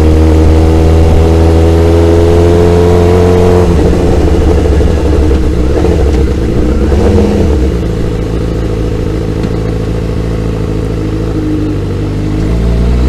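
Motorcycle engine running while riding, holding a steady note for the first few seconds, then dropping lower and easing off, and picking up again near the end.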